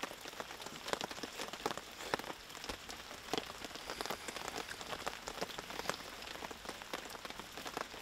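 Light rain falling steadily, a dense irregular patter of individual drops ticking close by.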